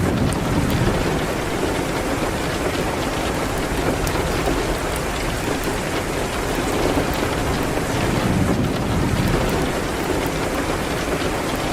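Steady heavy rain on a window, with small scattered crackles from a wood fire in a fireplace. A low rumble swells near the start and again about three-quarters of the way through.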